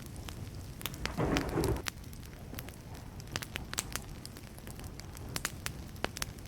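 Wood campfire burning, crackling with many sharp irregular pops over a low steady rush, with a brief louder burst a little over a second in.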